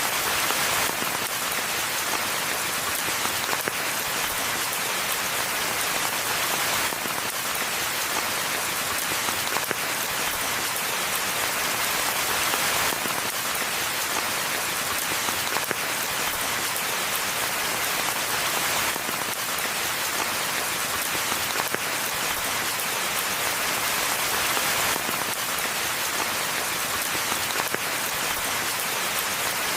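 Steady rainfall: an even, unbroken hiss of many drops, brightest in the upper range.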